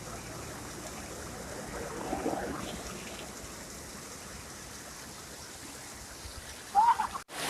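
Steady rushing of flowing water from a hill stream or small waterfall. A short rising tone sounds briefly near the end.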